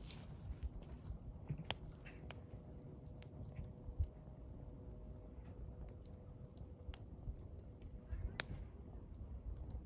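Wood burning in a campfire, crackling with scattered sharp pops, a few of them louder.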